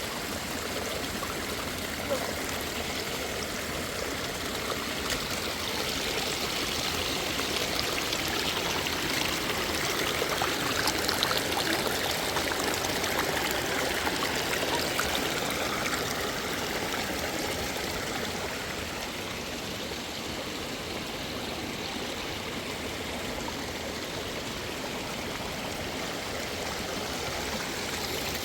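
River water flowing with a steady rushing sound, swelling a little louder for several seconds partway through.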